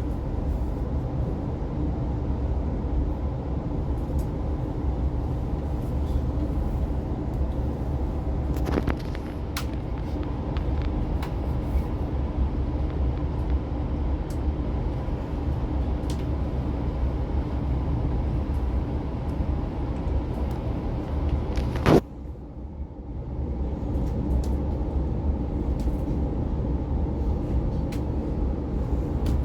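Cabin noise inside an Oscar H set electric intercity train in motion: a steady low rumble from the running gear with a few constant hum tones. A single sharp knock about 22 seconds in is followed briefly by quieter running.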